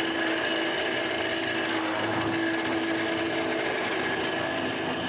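Wood lathe running steadily while a small wooden piece is turned, a constant motor hum under the even rush of the tool cutting wood.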